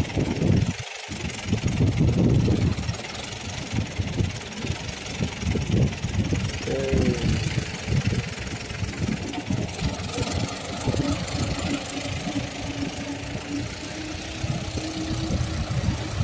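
An engine idling with an uneven low knock, and a steady hum joins in about eleven seconds in.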